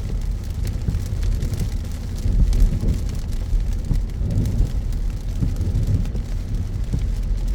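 Car driving in heavy rain: a steady low road and engine rumble with rain pattering on the car.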